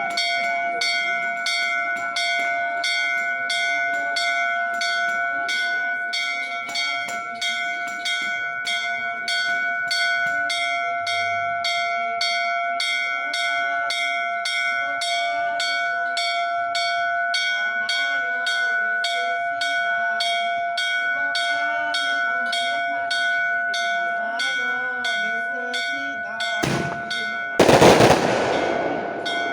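A bell struck rapidly and evenly, about two to three strokes a second, its ringing tone held steady underneath. Near the end a loud firework bursts.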